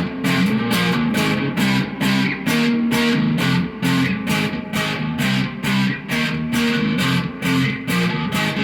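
Electric guitar played through an amplifier: rhythmic picked chords at an even pace of about three to four strokes a second.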